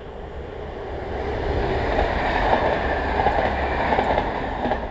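A double-deck electric passenger train passing: a rushing noise that builds, stays loud with repeated wheel clicks over the rails, then falls away near the end.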